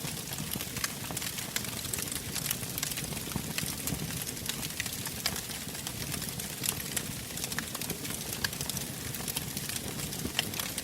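Wood fire burning in a fireplace: a steady low rushing with frequent sharp crackles and pops at irregular intervals.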